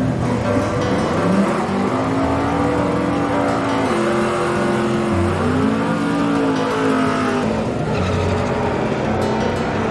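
Drag-racing car engine accelerating hard under full throttle. Its pitch climbs, falls back at a gear change about five seconds in, then climbs again.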